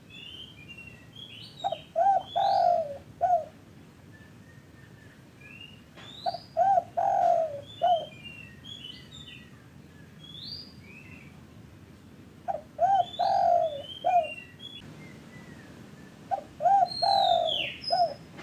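Spotted dove cooing: four phrases, each of two short coos, a longer rolling coo and a short closing coo, repeated every four to five seconds. Small birds chirp at a higher pitch between and over the phrases.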